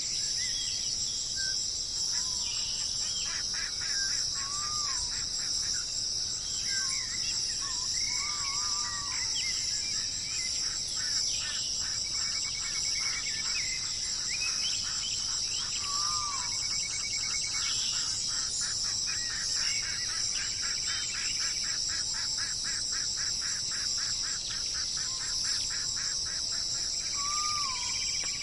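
Wild birds calling and singing over a steady high-pitched insect chorus: short whistled notes come and go, and through the middle a bird gives a long rapid pulsed trill of about two or three notes a second.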